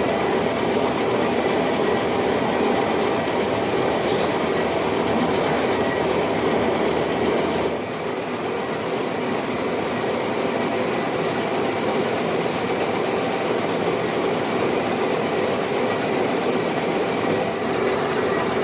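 Metal lathe running steadily while machining a cast-iron V-belt pulley, a continuous mechanical clatter with faint steady tones in it. The noise drops a little about eight seconds in and carries on.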